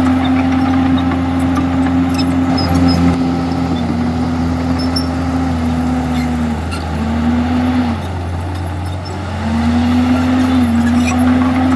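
Komatsu D51EX bulldozer's diesel engine running under load with a steady note. The pitch dips twice in the second half, with a quieter stretch around 8 to 9 seconds in, before it picks back up.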